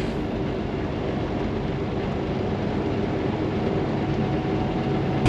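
Steady engine and road noise inside a semi-truck's cab while it is driving.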